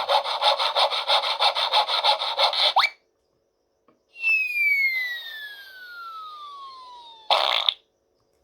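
Sound-effects machine playing its built-in effects: first a rapid rasping, scraping effect repeating several times a second for about three seconds, then, after a short pause, a long falling whistle that ends abruptly in a short noisy burst.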